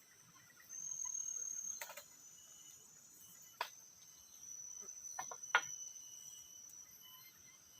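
Forest insects such as crickets trilling on a steady high pitch, swelling louder for about a second near the start and again past the middle, with fainter insect or bird calls behind. Four sharp clicks or knocks cut through, one a couple of seconds in, one past three and a half seconds, and two close together past five seconds, the last the loudest.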